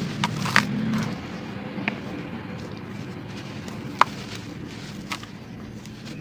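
Dry crumbly clumps being crushed and breaking apart: a gritty crunching that is heaviest in the first second, with scattered sharp cracks, the loudest about four seconds in.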